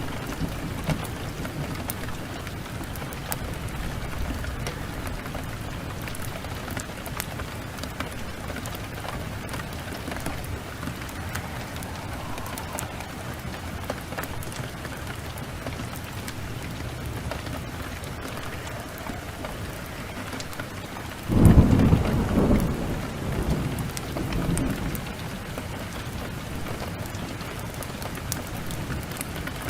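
Steady heavy rain, with a clap of thunder about two-thirds of the way through that rumbles on for a few seconds and fades.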